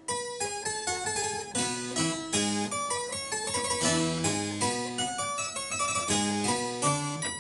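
Harpsichord playing a lively passage of quick plucked notes, with several notes sounding together; the playing starts right at the beginning after a short pause.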